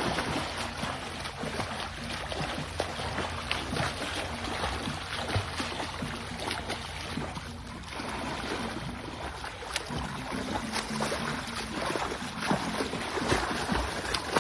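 Water splashing and sloshing as a dog paddles in a swimming pool, a steady run of small splashes.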